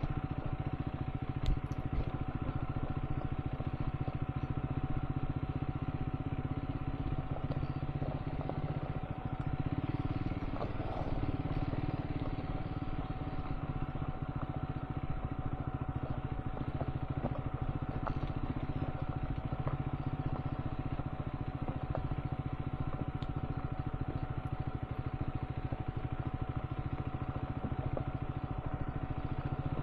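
Triumph Scrambler 400 X single-cylinder engine running steadily while riding, recorded on board, with a thin steady whine above it and a few faint ticks.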